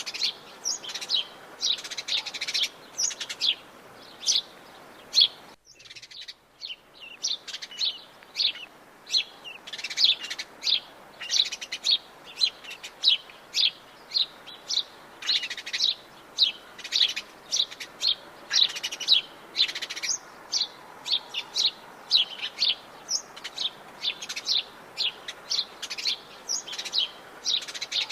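Many Atlantic Forest birds chirping and calling together, a dense stream of short, high chirps with no pause between them. The sound cuts out briefly about six seconds in, then the chirping resumes.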